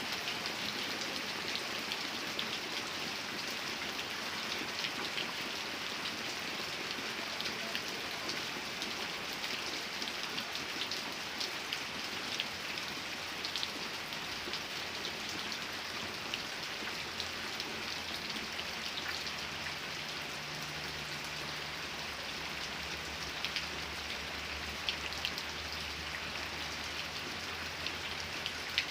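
Steady rain falling, a dense even hiss with many individual drops ticking through it. A low rumble joins in a little past the middle.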